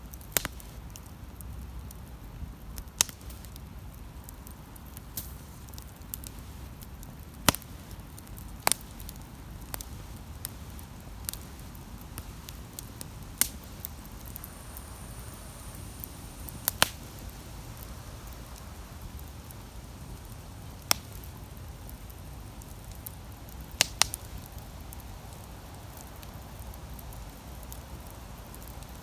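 Wood campfire burning, with sharp, irregular crackles and pops every few seconds over a steady low hiss.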